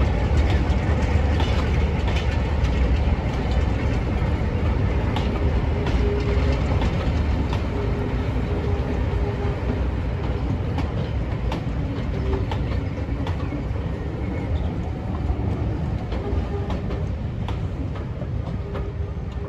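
A train hauled by Class 47 diesel 47449 running along the line, with a heavy low rumble and scattered clicks of wheels over the rail joints. It slowly grows fainter.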